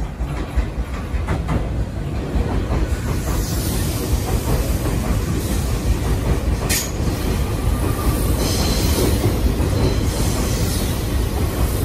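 Tobu 200/250-series limited-express electric train running along the station platform, its wheels rumbling steadily on the rails, with one sharp clank about seven seconds in.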